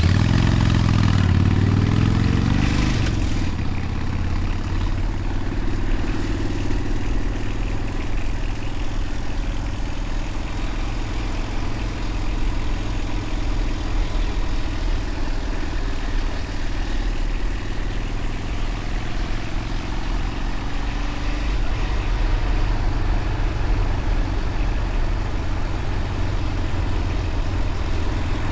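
Motorcycle engine pulling hard for the first few seconds, its pitch climbing, then running steadily under way with small changes in speed.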